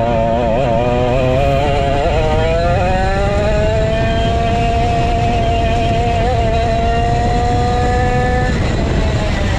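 Vintage go-kart's 135cc Sudam engine at racing speed. Its revs waver for about two seconds, then climb steadily as the kart accelerates, and drop suddenly near the end.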